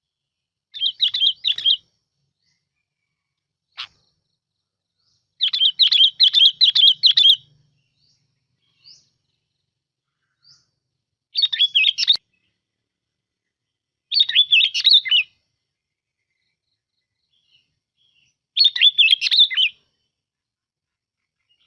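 Bông lau bulbul singing: five short bubbly phrases of quick, rapidly warbled notes, each a second or two long with pauses of a few seconds between, the second phrase the longest. It is a lure-call recording of the song.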